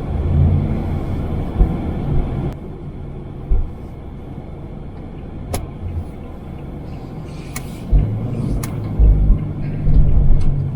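Road and engine noise inside a Toyota HiAce camper van's cabin while driving: a steady low rumble with a few sharp clicks, the engine hum growing stronger near the end.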